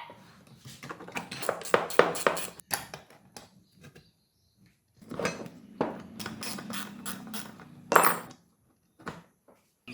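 Hand tools and metal parts clinking and knocking in two irregular flurries, with near-silent pauses between them. The loudest knock comes near the end.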